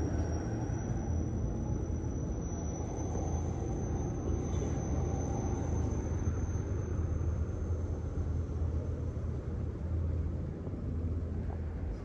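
Steady low rumble of motor vehicle engines, with no distinct events.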